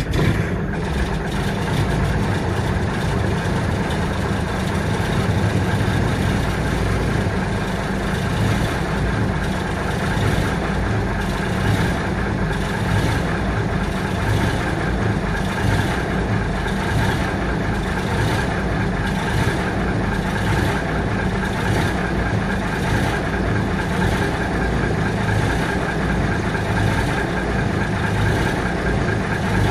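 Mack Maxidyne ENDT676 turbo-diesel inline-six in a 1980 Mack CF686, idling steadily just after a cold start.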